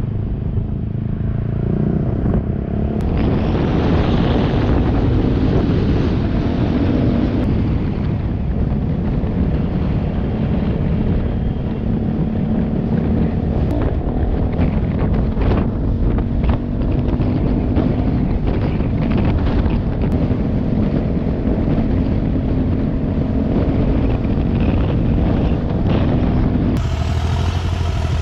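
Motorcycle engine running steadily while riding, with wind rushing over the microphone. The sound changes abruptly about a second before the end.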